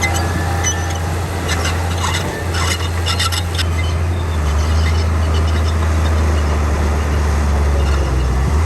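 Komatsu D41P bulldozer's diesel engine running steadily under load. A burst of short metallic squeaks and clanks from the steel tracks comes about two to three and a half seconds in.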